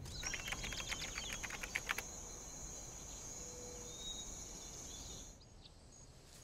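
Quiet woodland ambience with a steady high insect trill that cuts off suddenly about five seconds in. A run of faint clicks and ticks sounds in the first two seconds.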